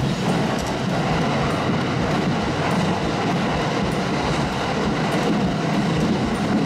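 Running noise of an electric commuter train heard from inside the carriage while it travels at speed: a steady rumble of wheels on rail, with faint clicks now and then.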